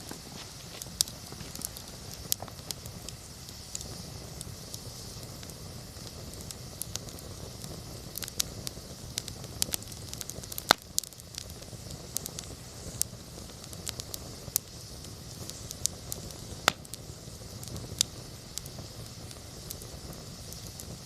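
Wood campfire burning steadily, with a low rumble of flame and irregular sharp crackles and pops from the burning wood.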